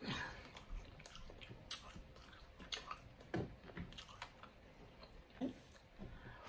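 Close-miked chewing of king crab meat: faint, scattered wet mouth sounds and small clicks.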